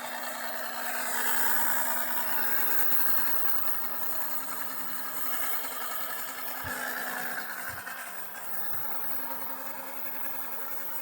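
Portable 12-volt oil extractor pump running steadily with a hum, drawing engine oil up a tube from the dipstick hole. A few short low knocks come in the second half.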